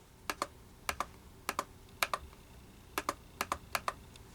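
Slow, uneven typing on a computer keyboard: about eight separate keystrokes, each a short double click.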